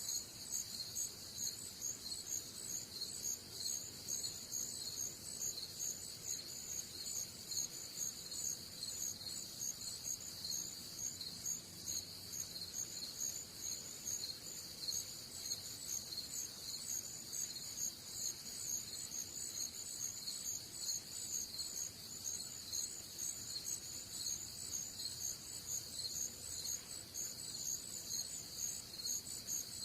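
A chorus of crickets chirping steadily, a rapid, continuous high-pitched pulsing.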